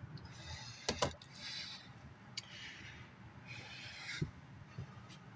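Short scraping and rubbing sounds from objects being handled on a work surface, with two sharp clicks about a second in and a dull knock near the end.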